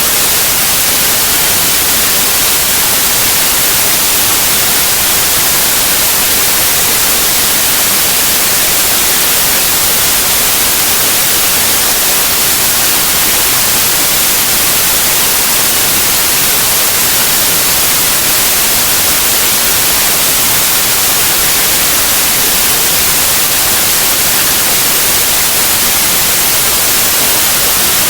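Continuous white noise: a loud, steady, even hiss, strongest in the highs, that never changes.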